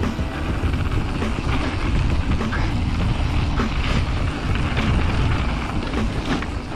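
Wind buffeting the microphone and mountain bike tyres rolling over a trail, with a few short knocks and rattles from the bike.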